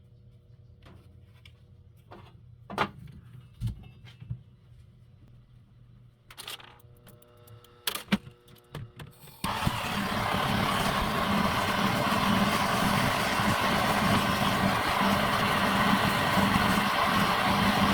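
A few light clicks and clatters of tools being handled, then about nine seconds in a gas brazing torch lights and burns with a loud, steady rushing noise, ready to braze the pierced aluminium evaporator.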